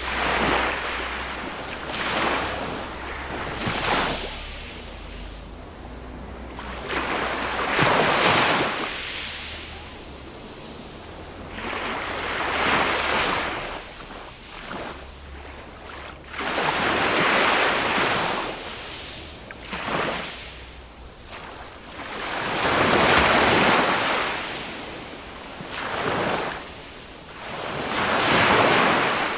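Small waves of a calm sea breaking and washing up a sandy beach, a fresh surge of surf every two to five seconds.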